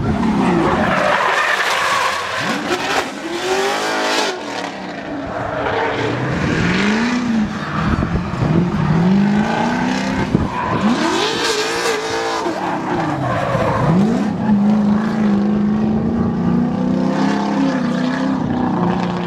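Drift car engine revving up and down over and over, with tyres squealing and skidding as the car slides. Over the last few seconds the engine holds a steadier pitch.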